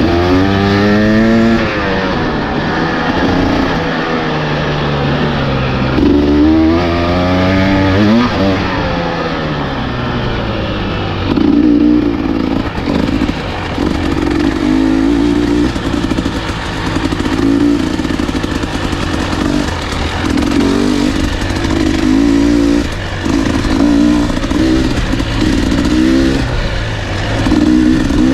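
Husqvarna enduro dirt bike engine under way on a trail, revving up and dropping back in pitch a few times in the first several seconds, then running in short, repeated bursts of throttle on and off.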